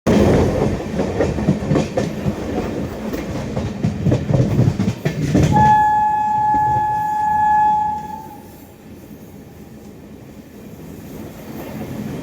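A train running past with the rumble and rapid clatter of wheels over rail joints. About halfway through a train horn sounds one long single-toned blast lasting about two and a half seconds, as the rumble dies away to a quieter hum.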